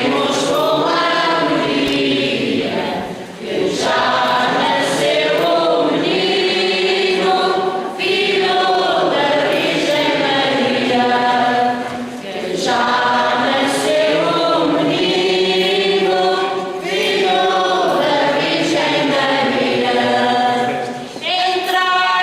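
Church choir singing in long sustained phrases, with short breaks between phrases.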